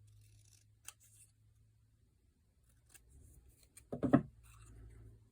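Scissors snipping paper in small, quiet cuts, trimming a cut-paper shape, with a brief louder thud about four seconds in.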